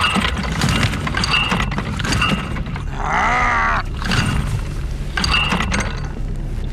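Repeated pull-start attempts on a small outboard motor's recoil starter: a series of short rattling pulls about a second apart, the engine never catching because the motor will no longer start. A drawn-out strained groan about three seconds in.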